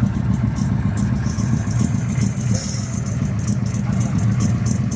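A car engine idling steadily with a low rumble, with scattered sharp ticks and clicks over it.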